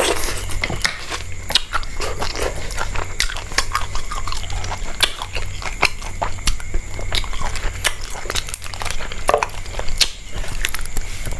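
A person eating close to the microphone: chewing and crunching, with many quick, irregular crackling clicks.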